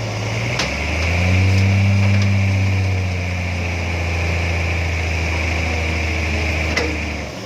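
Truck engine running steadily, its low note swelling about a second in, then stopping suddenly near the end.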